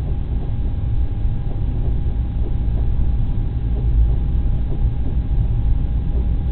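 Freight train's boxcars and flatcars rolling past, a steady low rumble of steel wheels on the rails.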